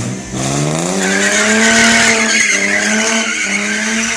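Car engine revving up early on and then held at high revs, with the hiss and squeal of tyres spinning on pavement, as in a burnout.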